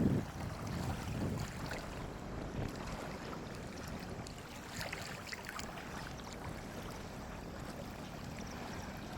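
Water washing steadily, with wind buffeting the microphone.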